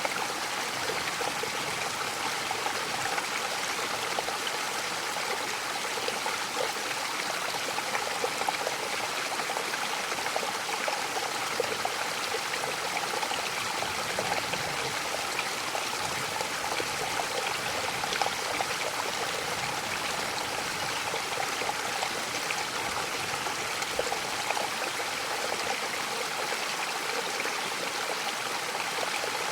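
Mountain waterfall: a steady rush of falling water with small splashes throughout.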